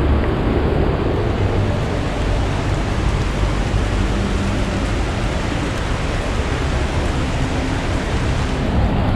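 Steady rain falling, an even hiss with a low rumble underneath; the hiss grows brighter about half a second in and dulls again near the end.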